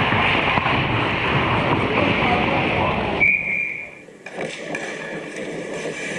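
Busy rink noise with voices, then a short, steady blast of a referee's whistle about three seconds in. After it the noise drops to quieter rink ambience.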